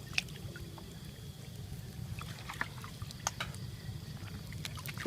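Water dripping and trickling, with scattered small splashes and clicks over a steady low rumble.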